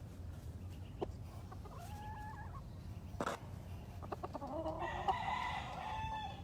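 Rooster crowing: a faint call about two seconds in, then a louder, longer crow from about four and a half seconds in. Two sharp knocks come between the calls.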